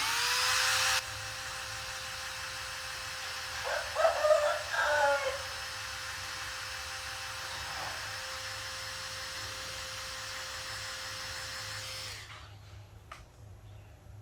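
Hot air gun switched on, its fan motor spinning up to a steady whine over a rush of blown air, then switched off about twelve seconds later. A short clatter of handling comes about four seconds in.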